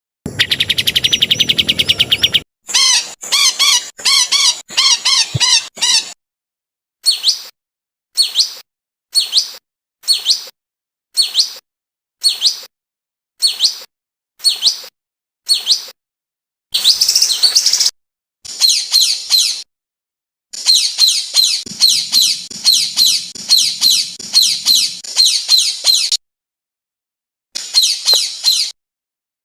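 Spliced recordings of songbird calls for a bird-training (masteran) track. It opens with a fast rattling trill, followed by a run of single sharp calls about once a second, then fast high chattering song. Each clip cuts off abruptly into dead silence.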